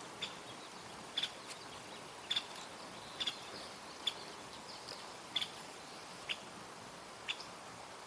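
A small bird giving a short, high chirp over and over, about once a second, over a faint steady hiss of outdoor air.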